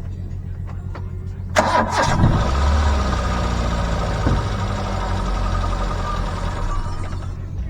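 A car engine starting: a sudden burst of starter noise about a second and a half in, then the engine catching with a low rumble and running for several seconds.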